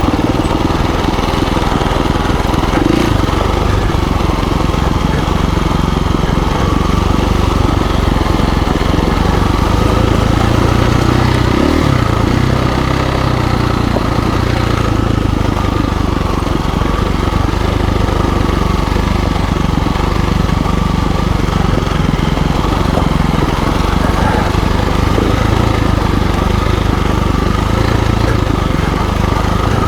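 KTM 350 EXC-F dirt bike's single-cylinder four-stroke engine running steadily as the bike is ridden along a trail.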